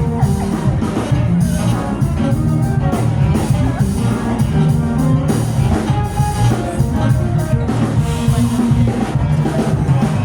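Live band playing amplified music with a full drum kit keeping a steady beat, recorded from the audience.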